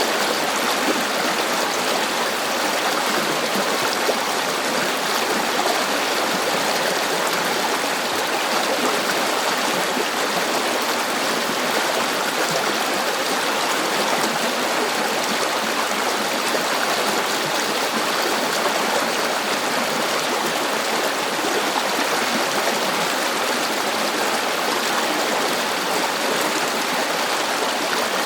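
River water running steadily over rocks: a constant rushing and babbling flow with no breaks.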